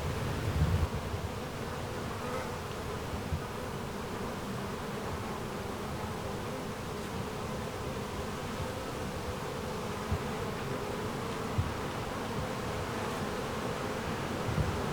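Insects buzzing in a steady drone that holds one pitch without a break, with a few low bumps of wind on the microphone about a second in.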